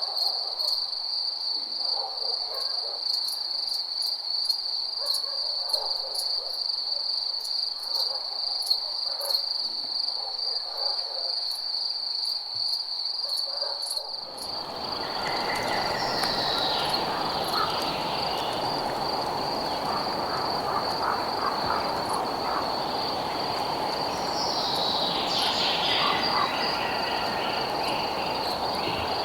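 Crickets trilling steadily at a high pitch, with faint short low calls in the first half. About halfway through, a steady rushing hiss joins in, and a falling call sounds twice.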